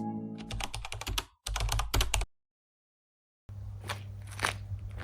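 Background music fades out under a quick run of sharp clicks lasting about two seconds. The clicks cut to dead silence, and faint room sound with a few light knocks follows.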